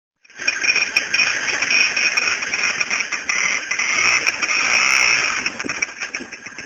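Motorcycle engine running loud and close, starting abruptly and fading toward the end.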